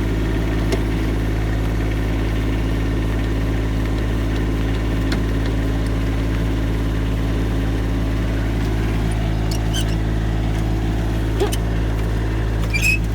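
Kubota B2650 compact tractor's diesel engine running steadily with a low, even hum. A couple of brief high chirps break in near the end.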